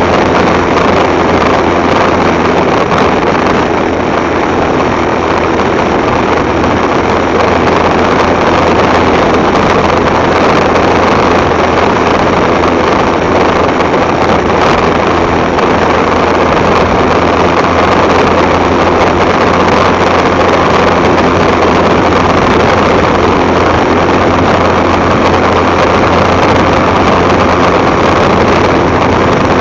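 Motorcycle engine running steadily while the bike is ridden, with wind rushing over the microphone.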